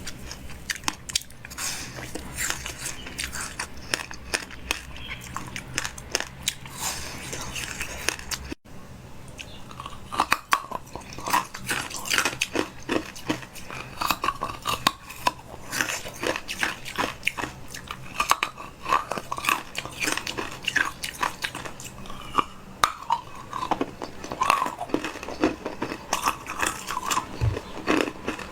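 Eating sounds: repeated crunchy bites and chewing with many short crackles over a low hum. The sound drops out sharply about a third of the way in, then the crunching carries on.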